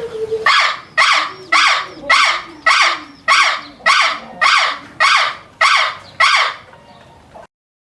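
A harsh animal call repeated about eleven times in an even series, roughly two calls a second, then stopping abruptly.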